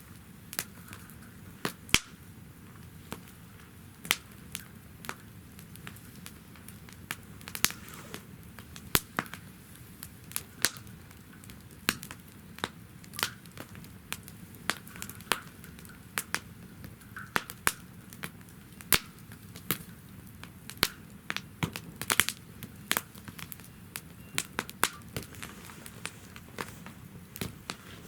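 Firewood burning in a campfire stand, crackling and popping at irregular intervals over a steady low noise of the flames.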